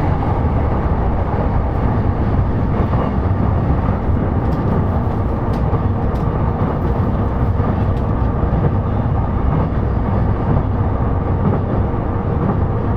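Interior running noise of a JR East E233 series electric commuter train: a steady rumble of wheels on the rails with a faint steady hum and a few light clicks.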